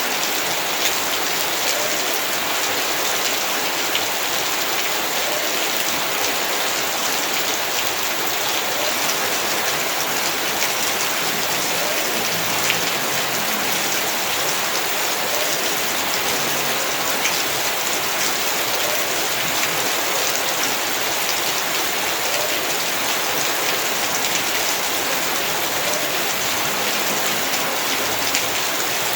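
Heavy rain falling steadily on surfaces in a yard, a dense even hiss with many fine drop taps.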